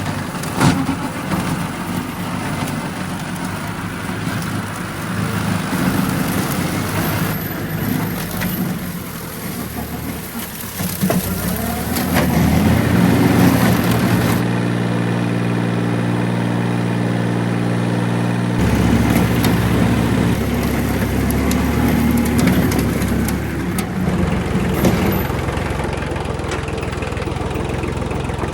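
Kubota diesel engine running at a steady low speed, its pitch shifting a few times, with a few knocks.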